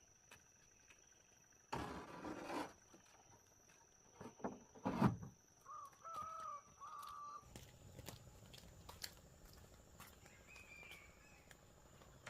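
Insects keep up a steady high drone. Over it come a rustle about two seconds in, a few knocks around the middle, and short bird calls.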